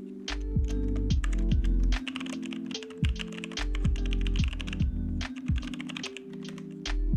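Computer keyboard typing in quick runs of clicks, over background music with a steady beat.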